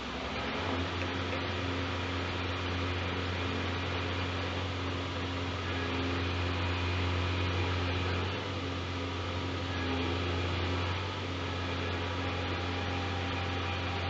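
Steady low drone of a Scania G410 truck's diesel engine running at constant speed, with an even hiss over it.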